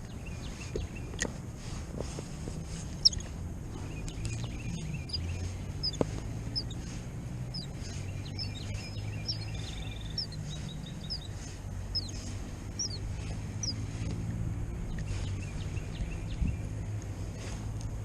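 Songbirds calling with repeated short, high, falling chirps and a brief trill, over a steady low rumble of wind. A few sharp knocks, the loudest about three seconds in.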